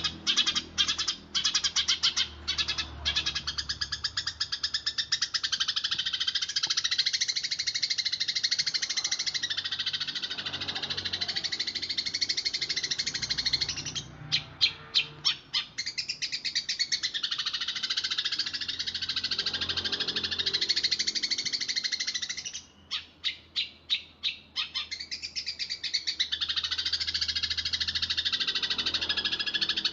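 A flock of Eurasian tree sparrows chirping in a fast, tight, continuous chatter. Three times, near the start, about halfway and again later, the chatter gives way to a run of separate loud chirps at about five a second.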